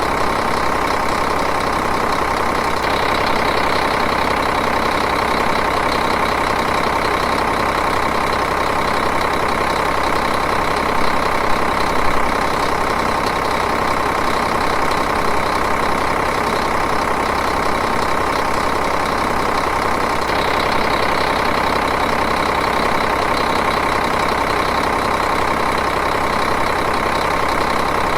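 Diesel engine idling steadily, with a few slightly louder beats about eleven seconds in.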